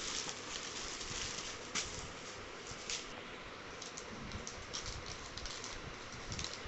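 Light clicks and taps from handling a small cardboard product box, scattered over a steady background hiss.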